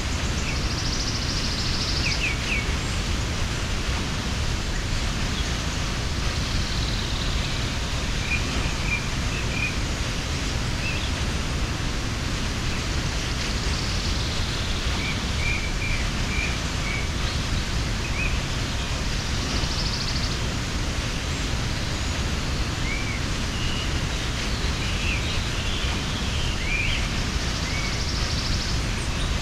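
Steady rush of a mountain waterfall, with small birds chirping briefly now and then over it.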